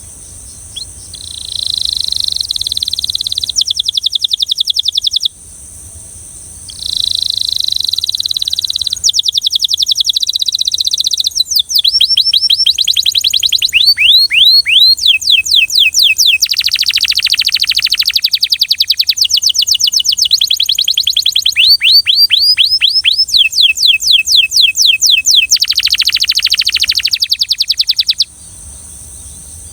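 Belgian canary singing: phrases of fast trills and rapidly repeated notes, starting about a second in, breaking off briefly after about five seconds, then running on almost without pause until shortly before the end.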